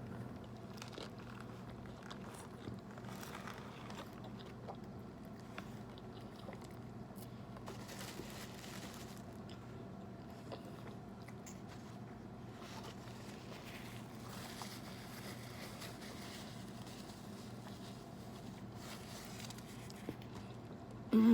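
A person biting and chewing mouthfuls of a Subway tuna sandwich, quietly, over a steady low hum.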